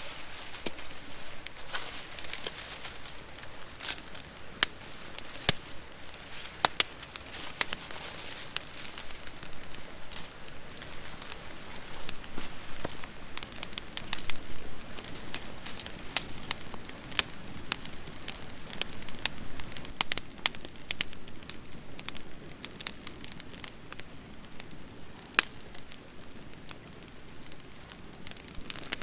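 Newly lit wood campfire crackling, with many sharp, irregular pops and snaps over a steady hiss.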